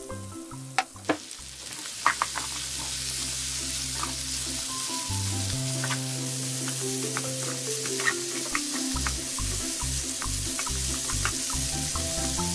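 Pork, carrot and onion sizzling in a hot nonstick frying pan as a wooden spatula stirs them, with scattered taps and scrapes of the spatula on the pan. The sizzle fills in after the first couple of seconds.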